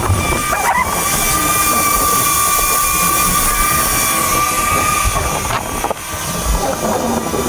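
Small quadcopter drone's propellers giving a steady whine amid strong wind buffeting the microphone. The whine holds one pitch and drops out about five and a half seconds in.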